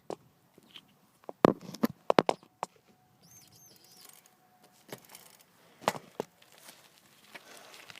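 Irregular sharp knocks and rattles of a loosely held phone jolting in its bike mount as the bike rides over bumpy ground, in a cluster early on and a pair about six seconds in.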